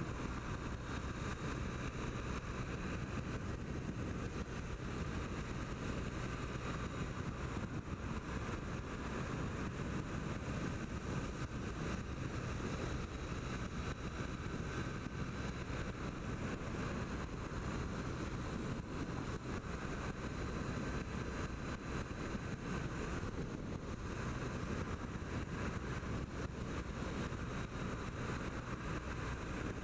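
A 2008 Triumph Bonneville's air-cooled parallel-twin engine running at a steady pace, with steady wind noise at the rider's microphone.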